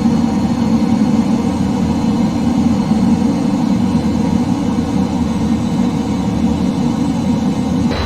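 Steady, loud engine drone with a constant hum, changing abruptly right at the end.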